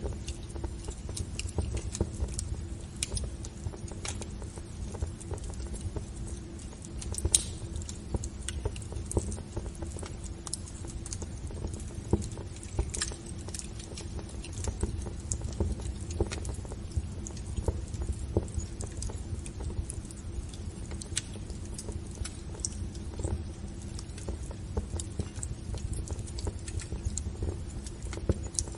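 Wood fire crackling in a fireplace: irregular sharp snaps and pops over a low steady rumble of burning.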